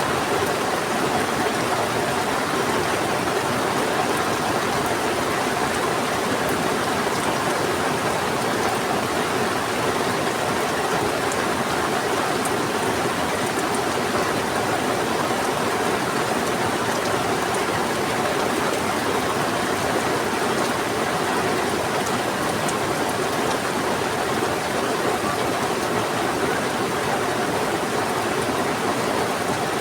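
Heavy rain falling together with a fast-flowing river rushing, a steady, unbroken wash of water noise.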